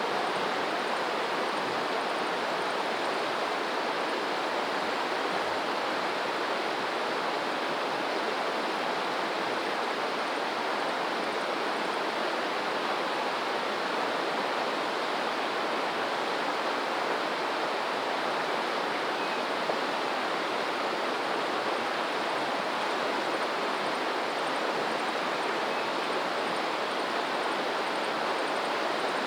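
Steady rush of flowing water, like a stream or small waterfall, at an unchanging level.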